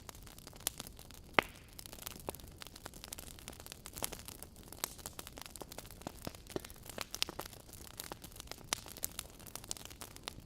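Wood fire crackling: irregular sharp pops and snaps from burning logs over a faint hiss, with one louder pop about a second and a half in.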